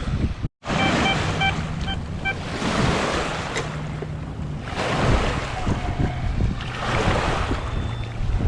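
Strong wind buffeting the microphone in rising and falling gusts. About a second in, a metal detector gives a quick run of short beeps over a target.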